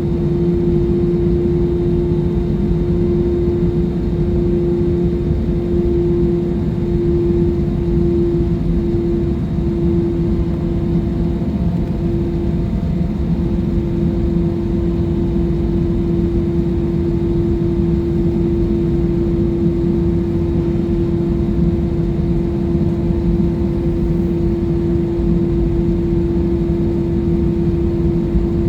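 Jet airliner cabin noise heard from a passenger seat: a steady engine drone over a low rumble, with one constant hum-like tone that holds throughout.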